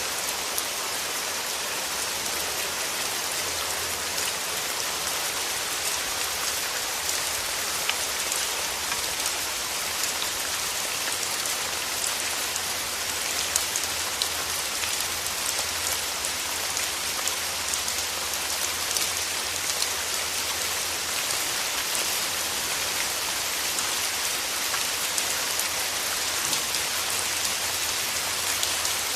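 Steady rain falling through forest trees: a dense, even hiss of drops with scattered individual drip ticks.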